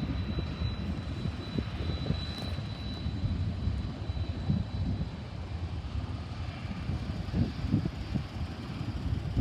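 Diesel locomotives of a BNSF freight train running with a steady low rumble, with a thin high whine that fades out about halfway through.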